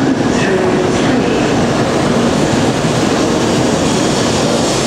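16-car JR Central N700A Series Shinkansen pulling into the platform, a steady loud rush of wheels and air as the cars slide past.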